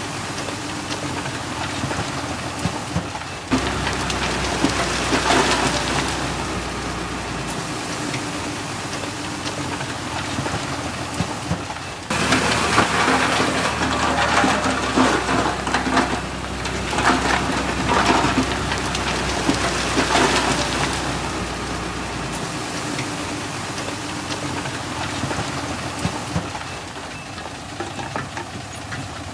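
Heavy earthmoving machinery at work: diesel engines running under a rushing, rattling noise of loose soil and stone, which swells about four seconds in and again from about twelve to twenty-one seconds.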